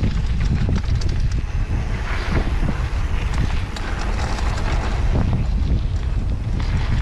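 Wind buffeting the microphone of a camera riding on a downhill mountain bike, a steady low rumble, with tyre noise and scattered clicks and rattles from the bike on the rough trail.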